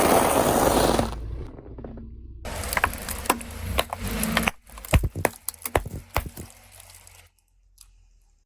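Objects being crushed under a car tyre: a loud rushing noise that stops about a second in, then a run of sharp cracks and crunches as something brittle breaks, fading out near the end.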